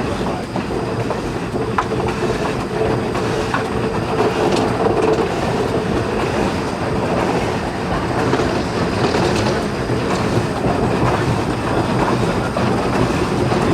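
A train running along the rails with a continuous rumble, a few faint clicks, and a faint steady tone through the middle.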